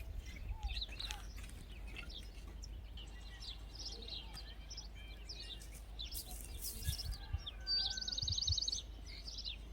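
Small birds chirping, with short high calls scattered throughout. About eight seconds in comes a rapid trill of about ten repeated notes a second, lasting just under a second.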